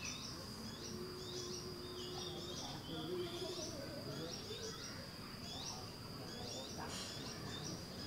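Small birds chirping in quick, repeated short calls over a steady high-pitched whine, with faint outdoor background noise.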